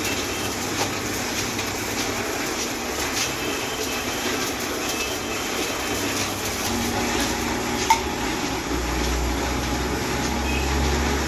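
Steady workshop background noise with scattered light metallic clinks and taps of tools and parts, and one sharper click about eight seconds in.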